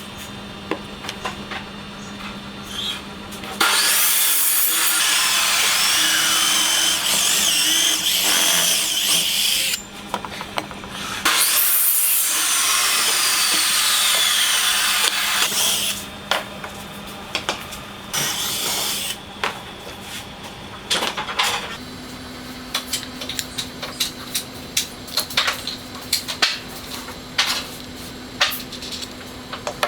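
Handheld electric power tool running on wood in two long bursts of about six and five seconds, then a shorter one, followed by a run of short taps and clicks.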